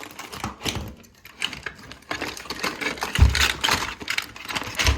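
Clicking and rattling of a model railway locomotive and its parts being handled, with small hard knocks throughout and two dull thuds, one about three seconds in and one near the end.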